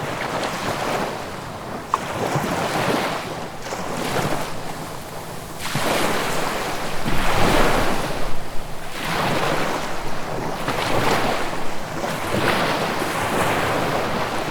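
Sea waves breaking and washing on the shore, the surf swelling and falling back every few seconds, with the loudest break about halfway through.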